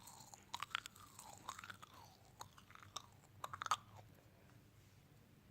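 Close-miked crunchy chewing and biting in three short clusters of crisp crunches, the last cluster, a little before four seconds in, the loudest.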